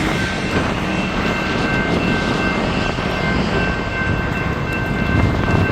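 Rail maintenance-of-way equipment moving along the track, under heavy wind rumble on the microphone. A thin, steady high-pitched tone comes in about a second in and holds.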